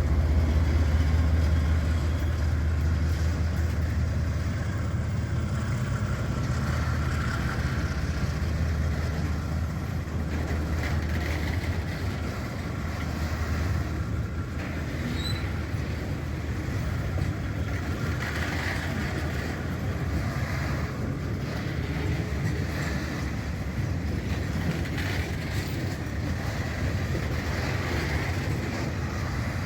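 Diesel locomotive of a train running, with a steady low engine rumble.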